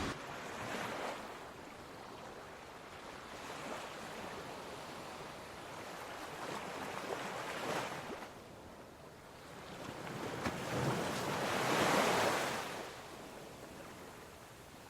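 Air rushing out of an underground cave vent at the surface, a whooshing noise that swells and fades several times, strongest about twelve seconds in.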